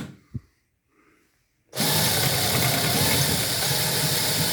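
Power drill with a 1/4-inch bit boring out a dowel hole in wood. It cuts off at the start, then after a pause of about a second and a half starts again and runs steadily.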